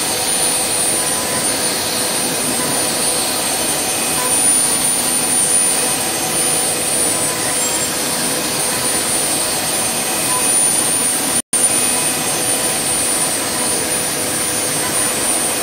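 CNC spindle running with a 6 mm ball-nose cutter taking the finishing pass on a turning wooden workpiece: a steady rushing noise with high whining tones. It cuts out for an instant about eleven seconds in.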